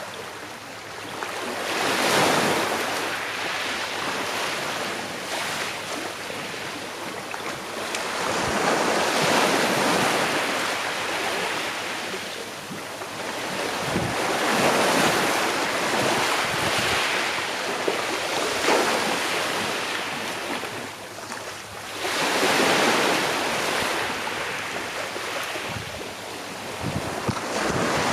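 Calm-sea waves washing onto the shore: a steady hiss of surf that swells and fades as each wave breaks, about every three to six seconds.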